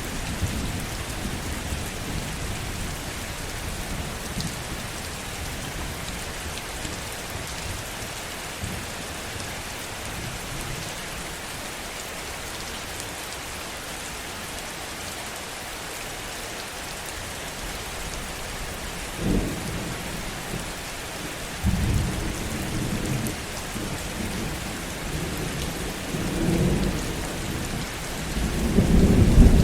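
Steady heavy rain with thunder rumbling low. The rain hiss runs evenly throughout. Several rolls of thunder come in the second half, building to the loudest just before the end.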